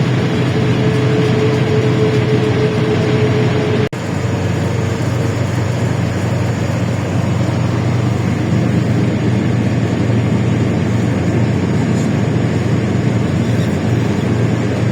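LiAZ-677M bus running under way, its ZIL V8 petrol engine giving a steady low drone. A high steady whine over it stops after a sudden brief dropout about four seconds in.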